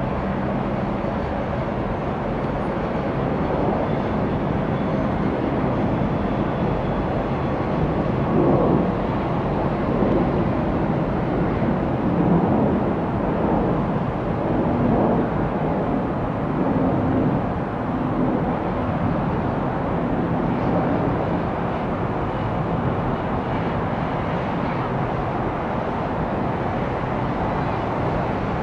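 Jet noise from an Airbus A350-941's Rolls-Royce Trent XWB engines: a steady rushing rumble that swells unevenly between about 8 and 17 seconds in.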